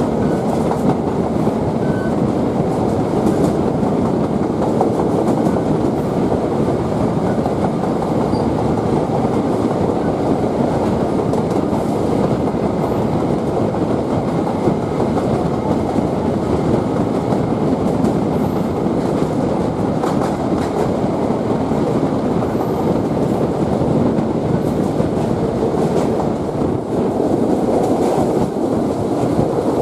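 Passenger train running at a steady speed: a continuous rumble of steel wheels on the rails.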